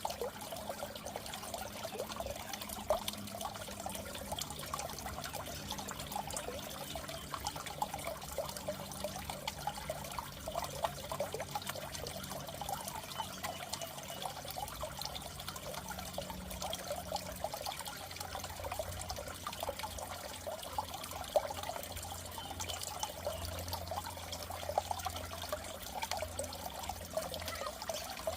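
Water in a goldfish tank trickling and bubbling steadily, with a faint low hum underneath.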